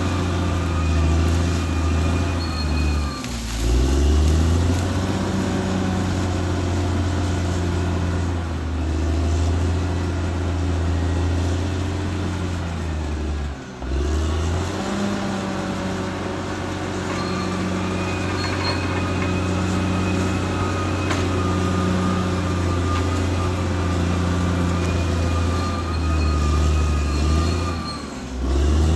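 Caterpillar D6R XL bulldozer's diesel engine running steadily at work, with a high whine coming and going over it. The engine speed drops and picks back up three times.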